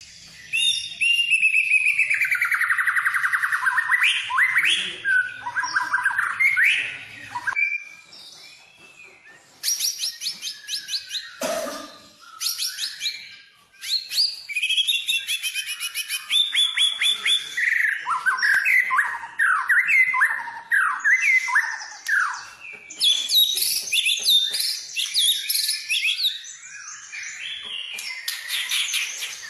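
White-rumped shama (murai batu) singing a loud, varied song of whistled gliding phrases, fast rattling trills and rapid repeated notes, broken by short pauses. It is the full-repertoire song packed with mimicked phrases ('full isian').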